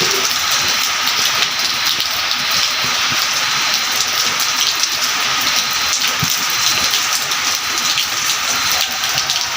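Light drizzle falling, a steady hiss of rain with the patter of many small drops landing on surfaces. A faint high chirp repeats about twice a second behind it.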